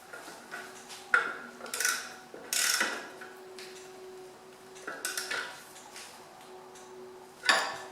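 Metal tool clinks and scrapes while tightening the tractor's engine sump drain plug: several sharp knocks with short rasping strokes between them, the longest about halfway in.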